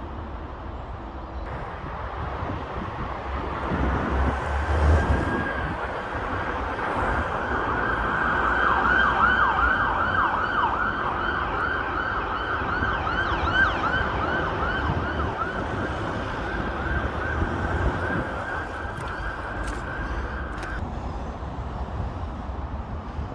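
Emergency vehicle siren passing in a fast yelp, several sweeps a second, growing louder and then fading before it cuts off about 21 seconds in, over a steady rumble of traffic.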